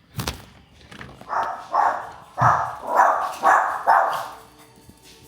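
A dog barking, six barks at about two a second, after a single thump near the start.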